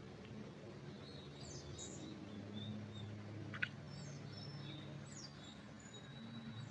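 Small songbirds chirping with short, high notes, some gliding up or down, over a steady low hum and faint background hiss. A single sharp click comes about halfway through.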